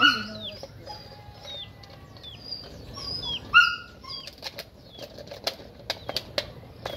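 Small birds chirping: short, high, falling notes come several times a second, with two louder, fuller calls at the start and about three and a half seconds in. A run of sharp clicks follows in the second half.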